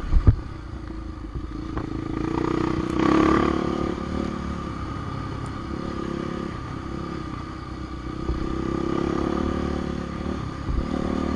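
Dirt bike engine running, revving up and easing off a few times, with two heavy thumps just after the start.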